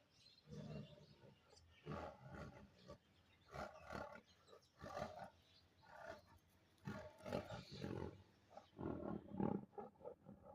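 Bengal tiger calling in a series of short roars, roughly one every second.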